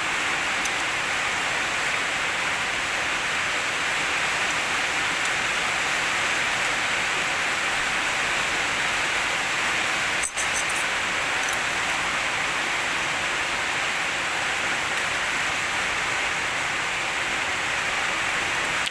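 H&L QL-1200 jet cleaner spraying water at high pressure, a steady hiss that dips briefly a little past ten seconds in.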